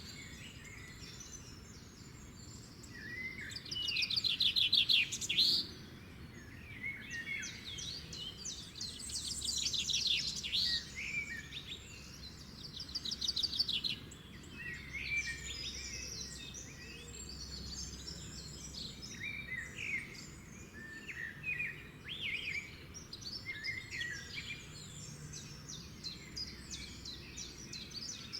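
Several birds singing and calling together: overlapping chirps, quick trills and buzzy phrases, with louder trilled songs at about 4 and 9 seconds in and near the middle.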